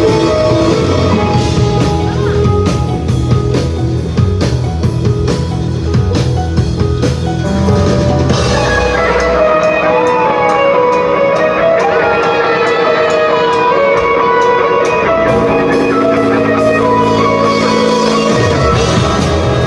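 Live rock band playing: guitar over a drum kit and bass. About halfway through, the drums and bass drop out, leaving sustained guitar tones with some sliding notes. The full band comes back in near the end.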